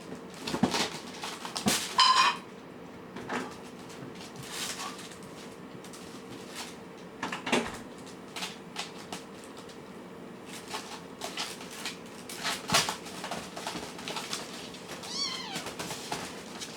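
Kittens meowing: a short call about two seconds in and a higher, wavering call near the end, among scattered short clicks and taps.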